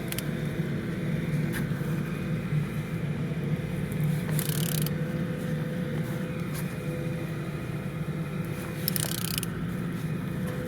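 A BMW N47D20A four-cylinder diesel engine, out of the car, being turned over on its crankshaft to check it rotates freely: a steady mechanical drone with two short hissing scrapes, about four and about nine seconds in. It turns without trouble.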